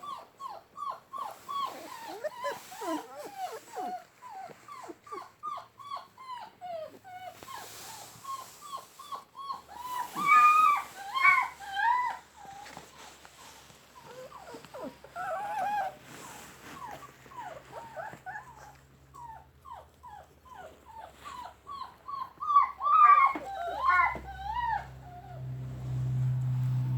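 Puppies whimpering: many short, rising-and-falling squeaky cries, several a second and overlapping, with a few louder cries in two spells. A low steady hum comes in near the end.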